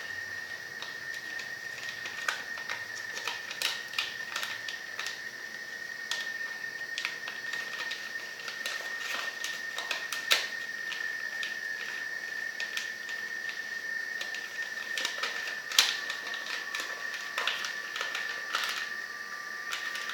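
A sheet of paper being folded and creased by hand: irregular crisp rustles and sharp creasing clicks, the loudest two about ten and sixteen seconds in, over a steady high-pitched whine.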